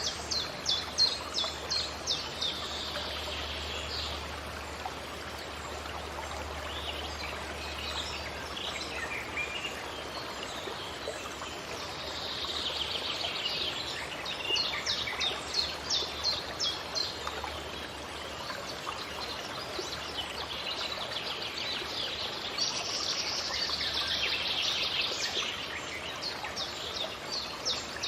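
Forest birds singing, with rapid runs of high chirps that come in three spells: near the start, in the middle and near the end. A steady rushing hiss lies underneath throughout.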